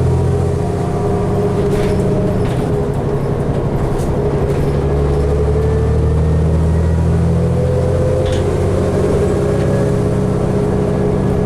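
Interior of a New Flyer D60LFR articulated diesel bus under way: a steady low engine drone with a higher whine that slowly rises as the bus picks up speed, and a few brief rattles.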